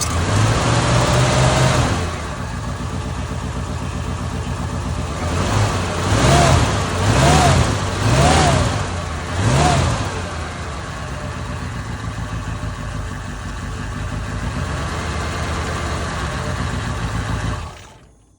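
1971 Ford Ranchero's engine running shortly after a cold start: it drops to a steady idle, is blipped four times in quick succession, each rev rising and falling, then idles evenly again until the sound cuts off.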